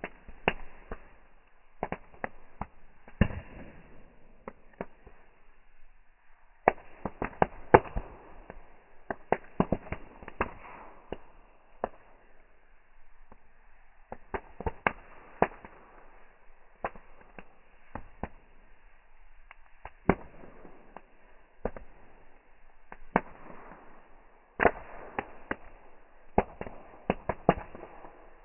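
Bonfire crackling, with irregular sharp pops of burning wood that come thick and fast in clusters and thin out in between.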